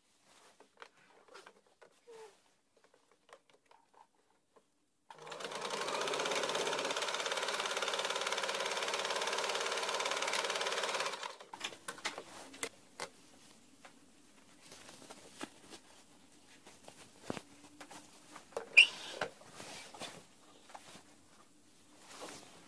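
Sewing machine stitching steadily for about six seconds, starting about five seconds in and then stopping. Faint scattered clicks and handling sounds follow, with one sharp click near the end.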